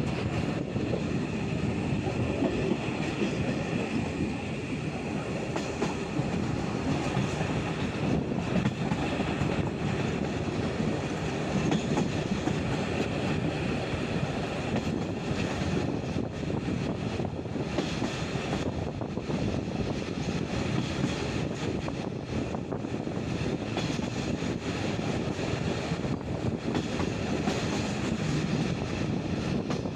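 Passenger train carriage running along the track, heard from a window: a steady rumble and rush of wheels on rail, with occasional clicks of the wheels over the track.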